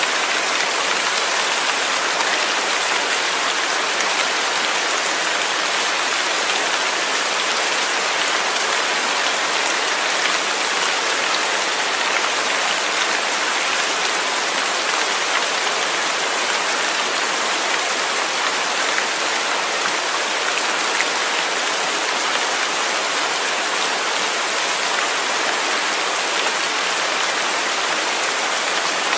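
Steady rain falling, a dense even hiss of drops with fine patter and no change in strength.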